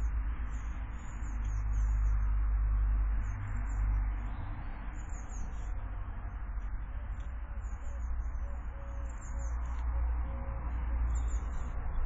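Small garden birds chirping, short, high, thin calls scattered throughout, over a steady low rumble and hiss.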